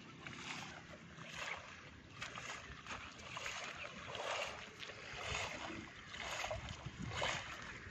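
Rushing floodwater: a noisy rush that swells and fades about once a second.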